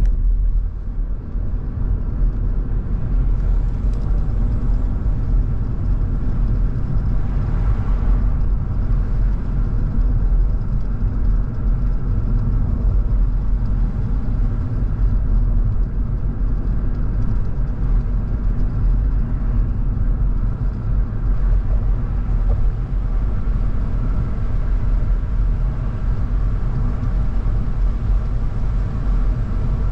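A car on the move: a steady low rumble of engine and tyres on the road, with a brief swell of hiss about eight seconds in.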